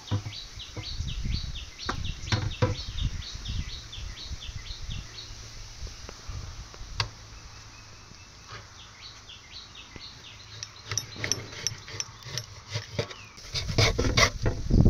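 A bird calling in a rapid run of short falling chirps, about five a second, for several seconds, then again a few seconds later, over scattered knocks and handling sounds. Near the end, a loud, rough scraping starts.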